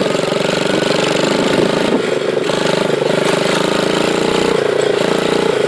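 Dirt bike engine running at a steady, even speed while being ridden, heard up close from the handlebars.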